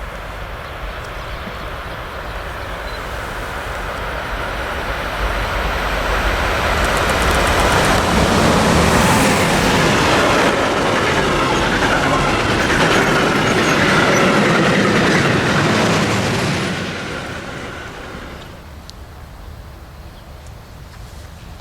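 Train passing by on the line: wheel and rail noise grows louder, stays at its loudest for about eight seconds, then dies away fairly quickly near the end.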